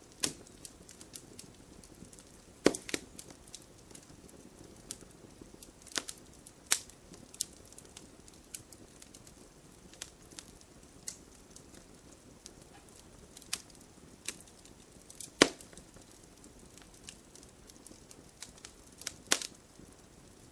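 Wood bonfire burning, with irregular sharp crackles and pops over a soft low rustle of the flames. The loudest pops come about three seconds in and about fifteen seconds in.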